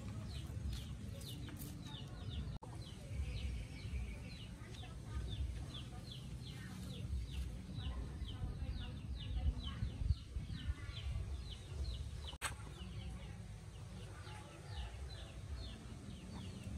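Birds chirping in short, high, falling notes, about four a second, over a low rumble. The sound cuts out briefly twice.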